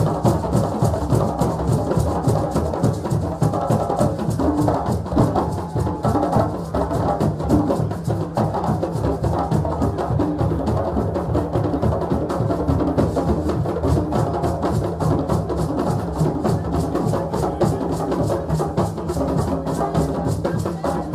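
West African drums played in a fast, dense, driving rhythm, with no let-up.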